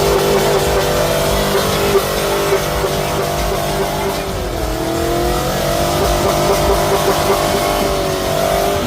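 Mud truck engine running hard at high revs under load, its pitch dipping briefly about halfway through and climbing back up.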